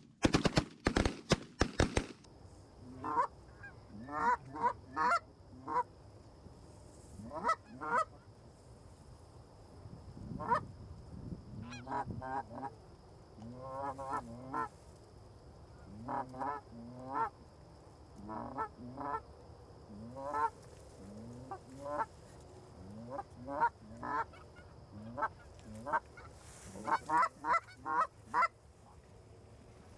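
A quick volley of shotgun blasts in the first two seconds, then Canada goose honking, short calls repeated every second or so for the rest of the time.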